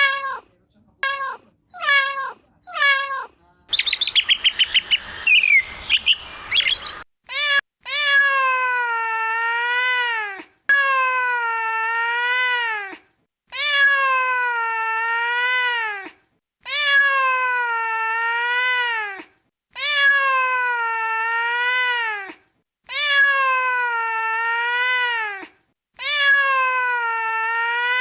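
Domestic cat meowing: four short meows falling in pitch, then about three seconds of rapid bird chirping. After that comes one long, drawn-out meow, repeated the same way about every three seconds.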